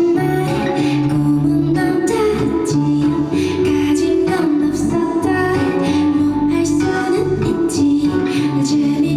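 Live pop-rock band playing a song at full volume: drums hitting a steady beat under bass and guitar chords, with a female voice singing.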